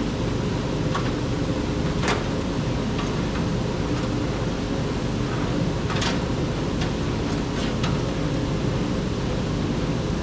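Wood-Mizer LT35 band sawmill running steadily while making a pass through a hemlock log, with a few sharp clicks scattered through the drone.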